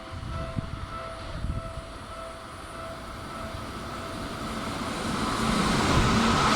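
A station platform warning chime beeps repeatedly and fades, then an electric train approaches, its running noise growing steadily louder from about four seconds in.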